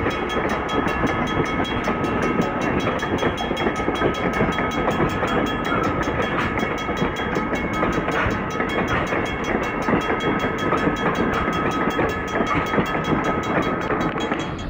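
Heritage railroad passenger coaches rolling past, their steel wheels clattering over the rail joints in a steady rumble, with a thin steady high ringing tone over it.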